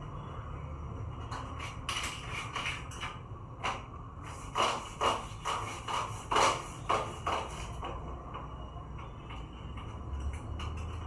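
A run of light knocks and clicks, about a dozen in the middle of the stretch and loudest near the middle, over a steady low hum.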